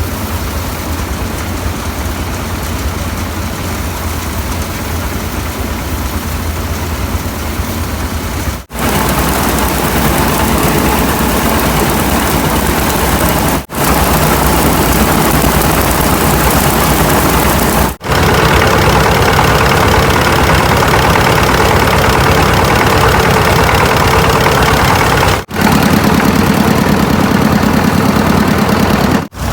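An engine-driven machine running steadily and loudly. The sound drops out for an instant about five times, and its tone shifts a little after each break.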